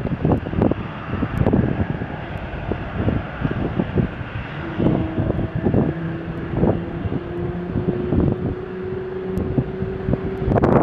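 Wind buffeting the microphone over the distant sound of an airliner's engines. A steady engine tone comes in about halfway through and holds.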